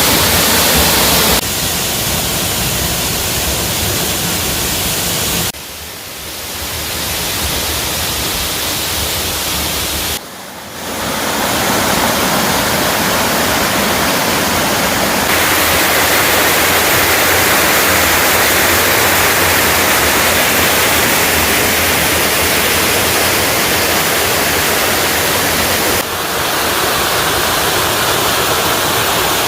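Otaki waterfall at Kuroyama Santaki, water pouring down in a steady, loud rush. Its level and tone shift abruptly a few times, with two brief dips around six and ten seconds in.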